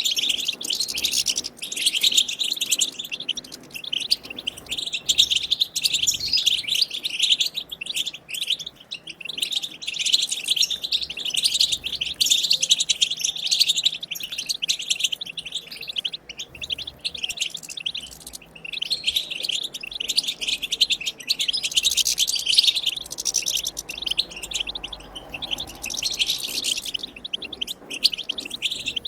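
European goldfinch twittering song: rapid, bright chattering phrases that run on with only brief pauses.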